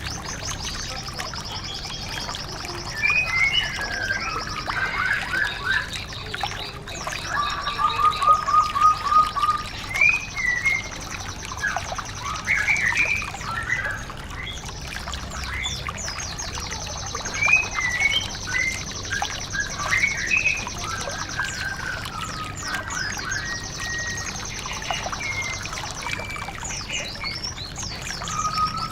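Recorded songbird song used as a training ('masteran') track for white-eyes: long, high, buzzy trills with bursts of quick chirps and whistles between them, including a rapid rattling trill about seven seconds in. A steady trickle of running water sits underneath.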